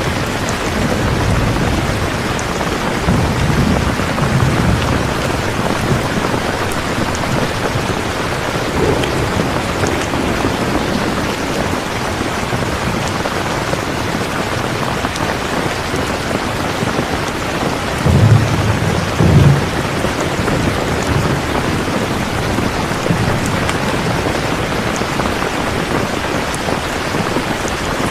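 Steady heavy rain falling, with low rolls of thunder in the first few seconds and a louder thunder rumble about two-thirds of the way through.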